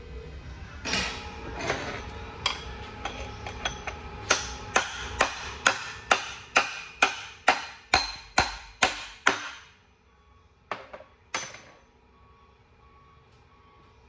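Hammer striking metal in a steady run of ringing blows, about two a second, growing louder and stopping about nine and a half seconds in, followed after a pause by two more blows.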